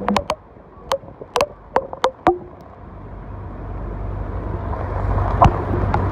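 Tour boat's engine running with a low, steady rumble that grows louder about halfway through. Several sharp knocks come in quick succession in the first couple of seconds, and one more near the end.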